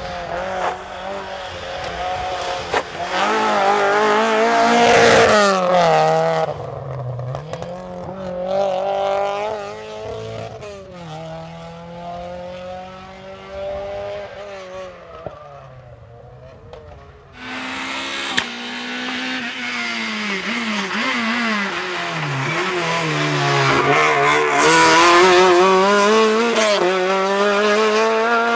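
Rally car engines revving hard through a corner, their pitch climbing and falling sharply with throttle lifts and gear changes. The sound cuts abruptly to another car about 17 seconds in, which builds to its loudest about 25 seconds in.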